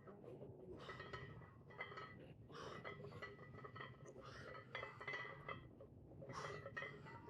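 Metal weight plates clinking and ringing on a loaded barbell in repeated bursts during a set of bench press reps at 225 lb, heard through heavy noise-removal processing.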